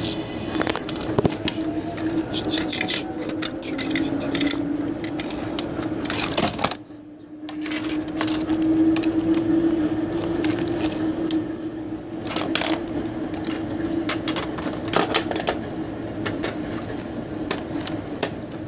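R142A subway car running between stations: a steady traction-motor hum that rises and falls slightly in pitch, with wheels clicking and rattling over the rails. The sound drops out suddenly for about half a second around 7 seconds in.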